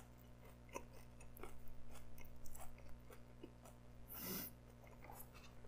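Close-miked chewing of a mouthful of pepperoni pizza: soft, quiet mouth clicks and smacks, with a short hiss about four seconds in.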